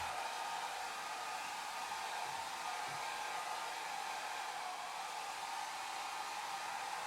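Hair dryer running steadily on one setting: a constant rush of blown air with a faint steady motor whine running through it.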